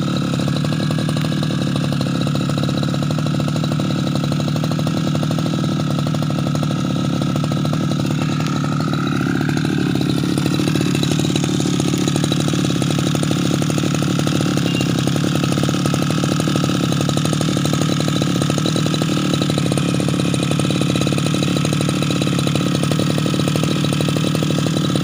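Two-stroke engine of a new Tasto TK328 brush cutter running steadily on its break-in run, on a fuel mix with extra oil. About ten seconds in, its note shifts slightly and it runs a little louder.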